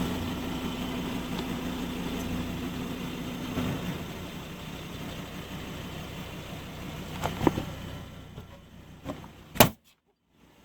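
Car engine running steadily, then fading, with a few sharp cracks near the end; the loudest comes just before the sound cuts off.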